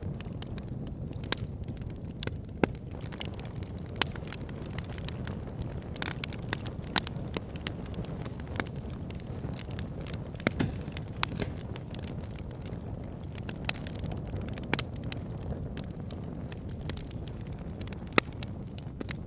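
Wood fire burning in a fireplace: a steady low rumble of flames with frequent crackles and occasional sharper pops.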